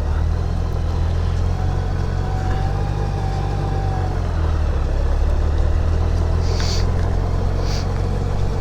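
Honda Goldwing GL1800 trike's flat-six engine running steadily at low cruising speed, heard as a steady low drone with road and wind noise over it. Two short high hisses come about a second apart near the end.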